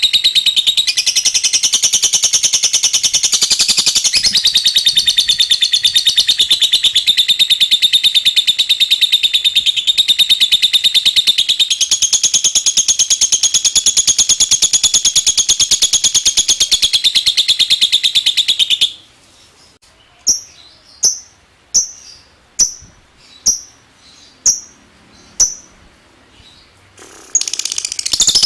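Lovebird singing a long ngekek: a very fast, unbroken chattering trill, loud and high, for about nineteen seconds. It breaks off into a string of about eight short single chirps, then the rapid trill starts again near the end.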